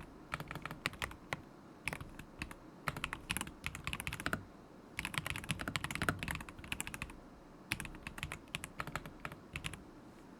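Typing on a stock KZZI K75 Pro mechanical keyboard with Moment linear switches: quick runs of key clacks in about five bursts, with short pauses between them.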